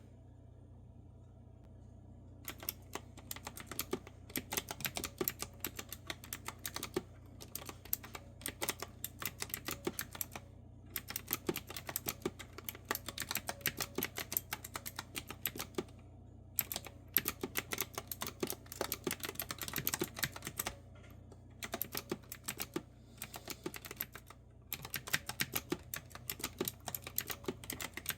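Clicky retro-style keyboard with round keys being typed on: quick runs of crisp keystrokes with short pauses between them, starting a couple of seconds in.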